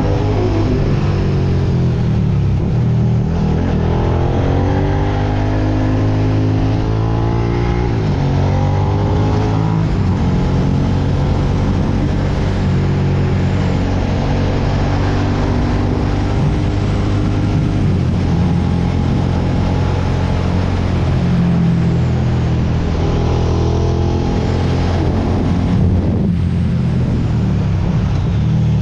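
Suzuki SV650X's 645 cc V-twin engine running under way, its revs rising and falling several times.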